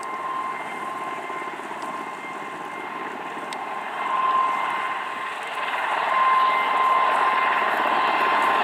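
Helicopters flying past in formation: a steady rush of rotor and turbine noise with a high whine, growing louder about four seconds in and again about six seconds in as the group comes closer.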